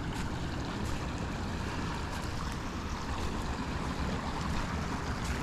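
Steady rush of pond water flowing into a lake drain, with a low wind rumble on the microphone.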